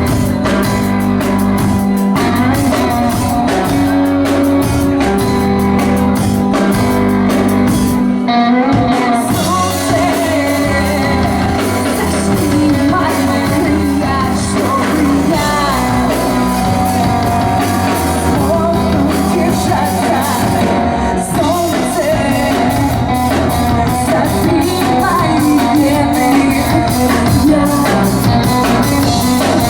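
Live rock band playing with sung vocals, electric guitar, bass and drum kit, heard through a club's PA, with short breaks in the cymbals about eight and twenty-one seconds in.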